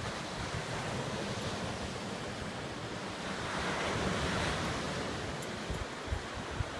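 Ocean surf washing steadily, swelling as a wave breaks about halfway through. Low wind thumps on the microphone near the end.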